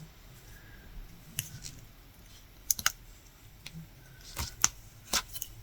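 Faint, irregular light clicks and taps of a latch hook tool working yarn into a rug canvas, with a quick cluster of clicks near the middle and a few more toward the end.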